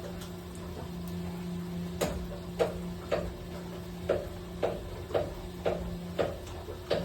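Steady low hum of running equipment, joined about two seconds in by a regular sharp ticking, about two ticks a second, each with a short ring.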